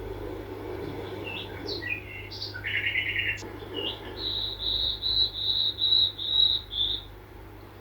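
A small songbird singing: a few varied high chirps and a short buzzy trill, then a run of about seven even, repeated notes over roughly three seconds.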